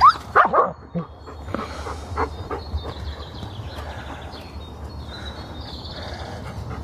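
Wild songbirds singing: faint, high, thin trills and whistles, with a few louder, sharper calls in the first second, over a low steady rumble.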